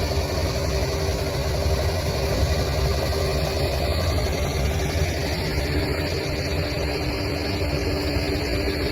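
Bulldozer's diesel engine running steadily, a low, even engine sound with no change in pace.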